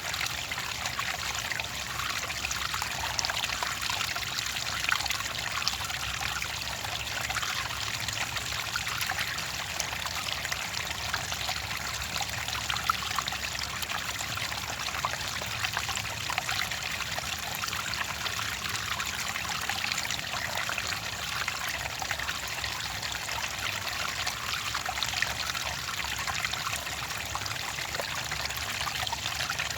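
Shallow clear water trickling and splashing steadily over stones, a continuous babble with small bright splashes.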